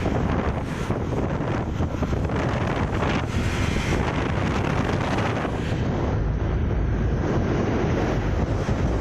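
Steady wind rush buffeting the microphone of a moving motorcycle, with the bike's engine and road noise underneath.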